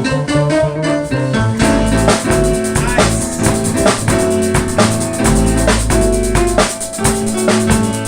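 A band playing an upbeat song, with a drum kit keeping a steady beat under bass and pitched instruments.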